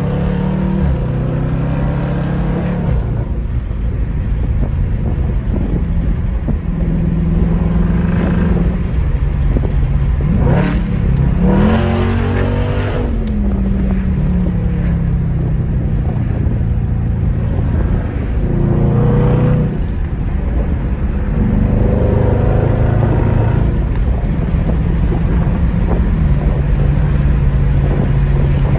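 Car engine and exhaust running loud, revving up and settling back several times, with one longer rise and fall in pitch about a third of the way in.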